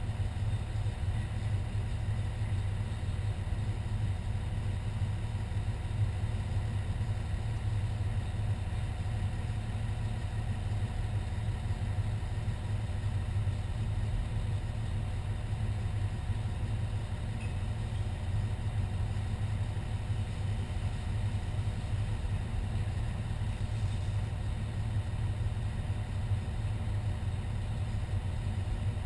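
Fire engine's engine running with a steady low drone.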